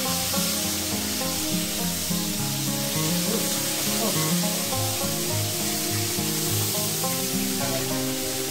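Food sizzling as it fries in hot oil, a steady hiss, with background music over it: plain sustained notes over a bass line that changes about twice a second.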